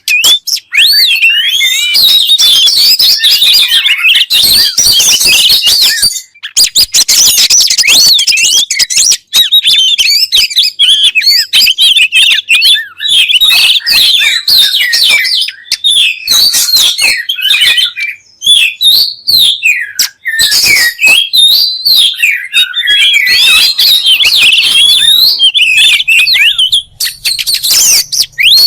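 Oriental magpie-robin (kacer) singing a loud, continuous song of rapidly varied whistles, trills and chattering notes with only brief pauses.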